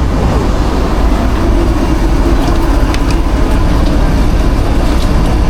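Steady, loud low rumble of food truck kitchen machinery running, with a few faint light clicks about halfway through.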